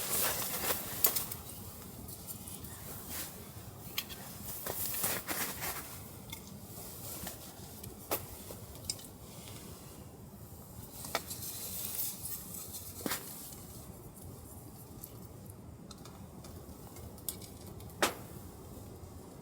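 Scattered sharp clicks and light knocks at irregular intervals, several close together near the start and about five seconds in, then single ones every few seconds, over a low steady background.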